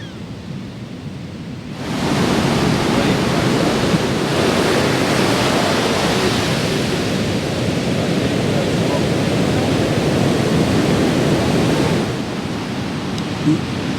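Ocean surf with wind on the microphone, a steady noisy rush that jumps louder about two seconds in and eases slightly near the end.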